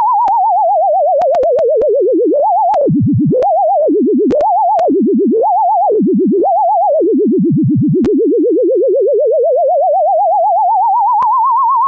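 Tone generator's single pure tone with a fast pitch wobble of about six a second. It falls from high to low, hops between a high and a low pitch several times, dips lowest about seven seconds in, then glides slowly back up. Faint clicks now and then.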